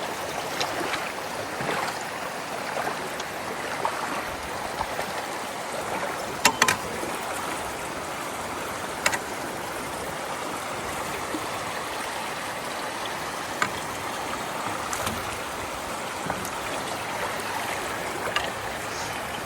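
Floodwater rushing steadily into a culvert entrance. A few sharp knocks break through it, the loudest a quick double knock about six and a half seconds in.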